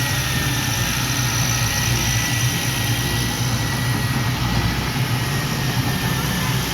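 Diesel engine of heavy earthmoving machinery running steadily at a constant speed, with a faint steady high whine over the low engine note.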